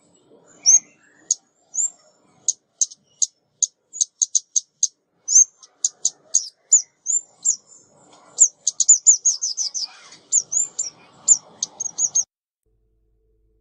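Female ốc mít songbird calling: a fast run of sharp, high chips mixed with short down-slurred notes, in uneven bouts, stopping about a second before the end.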